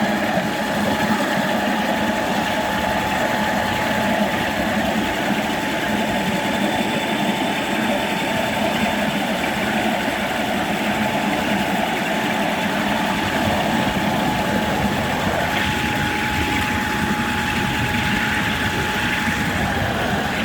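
Miniature electric locomotive running steadily, its motor giving a steady whine over a low hum; the whine's pitch dips slightly near the end.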